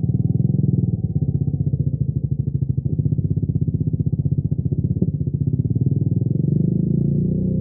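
Triumph Scrambler 400X's single-cylinder engine at high revs while cruising on a highway: a raw, steady, pulsing exhaust note.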